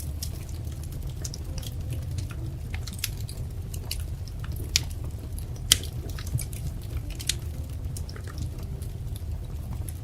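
Wood fire crackling: a steady low rumble of burning with irregular sharp pops and snaps, the strongest two about halfway through.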